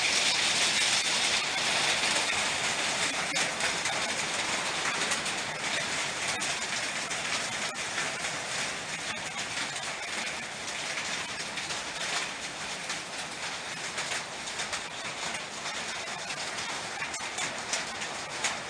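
A summer thunderstorm: strong wind and rain make a steady rushing hiss that eases slightly, with scattered small knocks and clatters.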